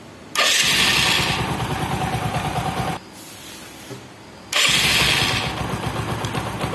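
Bajaj Discover motorcycle's single-cylinder four-stroke engine being started: it catches a moment in, runs for about two and a half seconds, drops out, then is started again about four and a half seconds in and keeps running at a steady idle.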